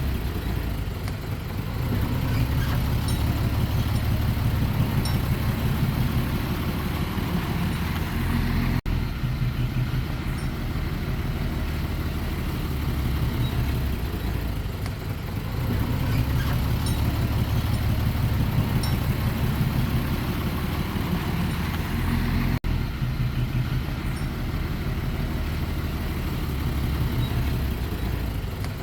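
Heavy diesel earthmoving machinery running steadily, its engine note swelling and easing over several seconds. Twice the sound cuts out for an instant.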